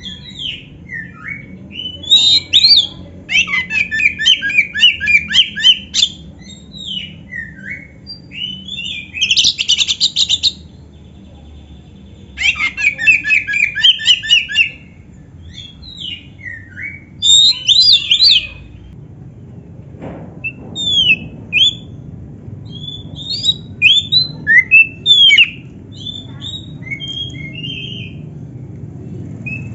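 Oriental magpie-robin (kacer) in full song, mixing canary-style fill-in phrases into a varied song. Bouts of fast chattering trills a second or two long alternate with single sharp whistled notes and short pauses.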